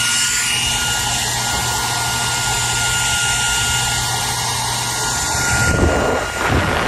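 Hair dryer running: a steady blowing hiss with a high, constant motor whine. About six seconds in, the top of the hiss drops away and the airflow turns uneven and fluttering.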